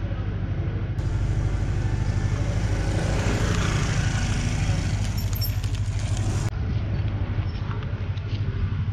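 A motorcycle engine idling: a steady low pulsing hum, with another engine swelling and fading as a scooter passes about three to four seconds in.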